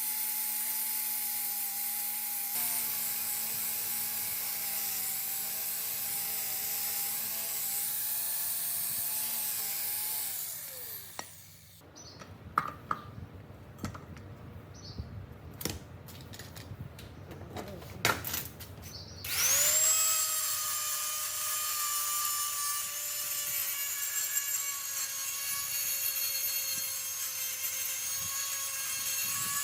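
An electric power tool running steadily, then switched off about ten seconds in and spinning down with a falling pitch. Several seconds of sharp clicks and knocks from handling follow. The tool is then started again with a quickly rising whine and runs steadily.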